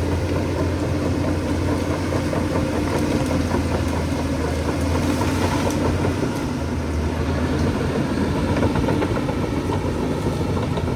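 Bulldozer's diesel engine running steadily, a continuous low drone with no big changes in speed.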